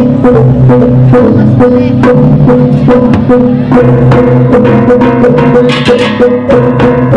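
Balinese gamelan playing: rapid struck notes over steady ringing tones.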